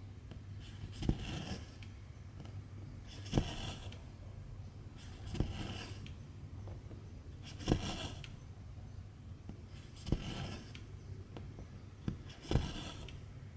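Cross-stitch needle punching through the fabric with a sharp tick, then the thread drawn through with a short swish, repeating about every two seconds: six stitches in a steady rhythm.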